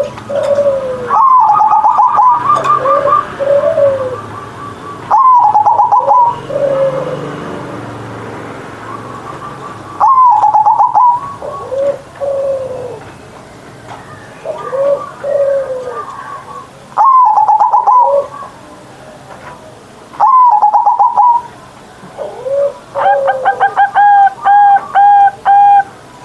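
Zebra dove (perkutut) cooing: about six loud rolled coo phrases a few seconds apart, with softer, lower coos in between and a run of quick repeated coo notes near the end.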